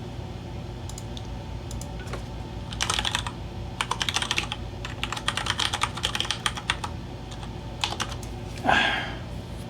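Computer keyboard typing in several short bursts of key clicks, over a steady low hum. Near the end there is one brief, louder sweeping sound.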